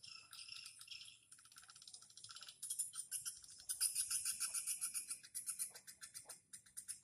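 Swiftlets' rapid, high-pitched twittering chatter, which gets louder about halfway through.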